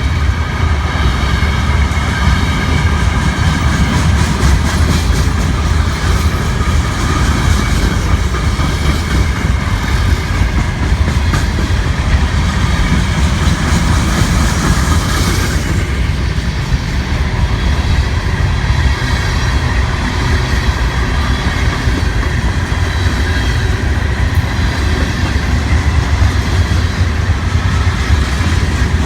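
Train rolling past at close range: a steady heavy rumble of the cars with the clickety-clack of wheels over the rail joints.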